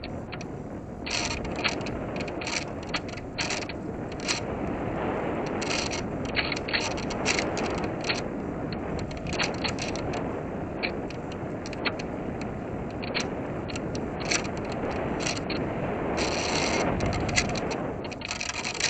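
Onboard sound of a small electric RC airplane in flight: a steady rush of air over the airframe, with frequent short mechanical clicks.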